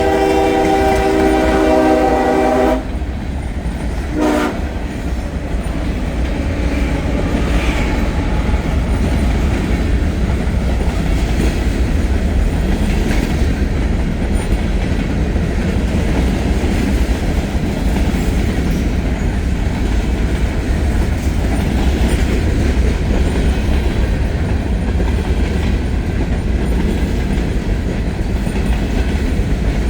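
Freight locomotive air horn sounding a long chord that cuts off about three seconds in, then a brief toot a second later. After that, heavy freight cars roll past with a steady rumble and wheel clatter over the rail joints.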